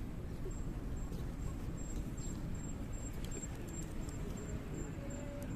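Hardwood campfire burning in a fire stand, a steady low rush with scattered sharp crackles and pops. A high, thin insect chirp pulses about twice a second throughout.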